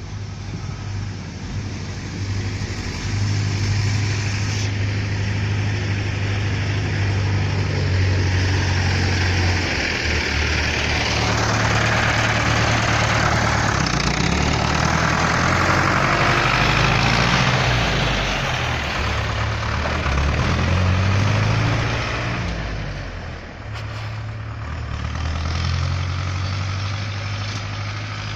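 Ursus 912 tractor's diesel engine idling steadily. About a third of the way in it is revved up and down for roughly twelve seconds, then drops back to a steady idle.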